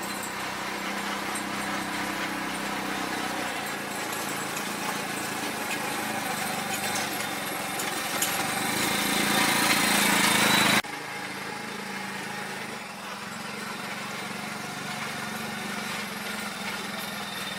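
Vehicle engine running with road noise while driving. It grows louder for a couple of seconds in the middle, then drops off suddenly and runs on steadily.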